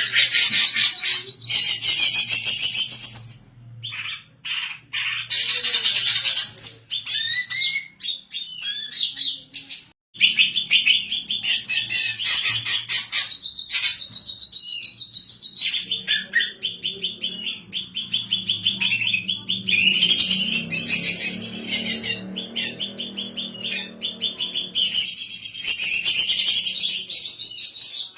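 Female cucak ijo (greater green leafbird) singing a fast, almost unbroken run of high chirps and trills, with a few short pauses.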